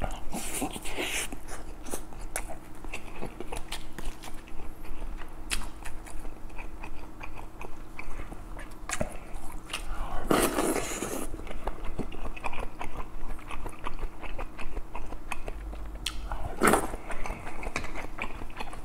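Close-miked chewing and wet mouth sounds of a person eating kimchi stew with pork belly and rice, with many small smacks and clicks, and a louder slurp of stew from the spoon about ten seconds in.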